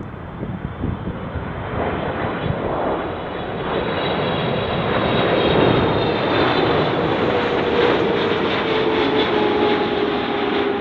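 Airliner on short final approach passing low overhead. The engine noise builds over the first few seconds and then holds loud. A high whine sits above it, and a lower tone drops slightly in pitch in the second half as the aircraft passes.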